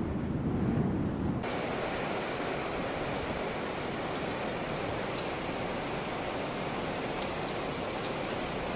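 Steady hiss of heavy rain falling, coming in abruptly about a second and a half in after a short stretch of low rumbling noise.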